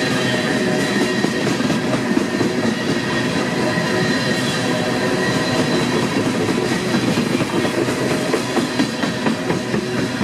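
A freight train rolling past: wheels running on the rails with a steady clatter, over a thin high squealing ring. The clicks of the wheels crossing rail joints come thicker in the second half.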